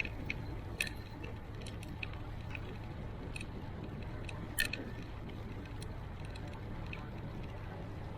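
Ride noise of a bicycle: a steady low rumble of wind and tyres, with scattered light clicks and rattles, the sharpest about a second in and again about halfway through.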